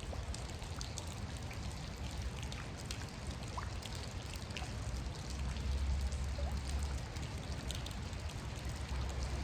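Steady rain with many small drops ticking, over the wash of running creek water.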